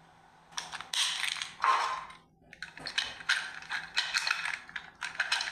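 Rapid clicking and rattling of small plastic toy parts, in several bursts with a short pause about two and a half seconds in.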